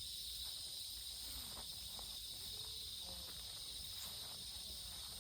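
Steady, high-pitched chorus of insects, with a few faint short rustles and taps underneath.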